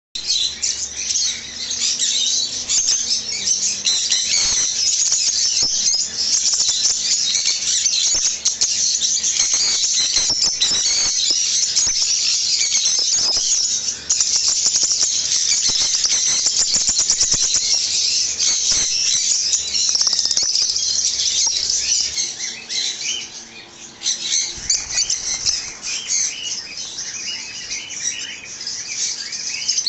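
A flock of caged lovebirds and cockatiels chattering and chirping without a break, with scattered clicks and wing flutters through the middle. The chattering dips briefly a little after two-thirds of the way through.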